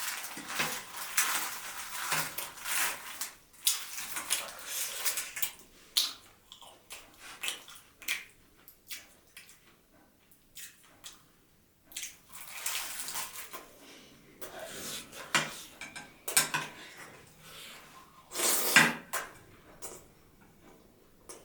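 Close-miked mukbang eating sounds: irregular bursts of chewing and biting mixed with clinks of plate and utensils, with quieter gaps and one louder burst near the end.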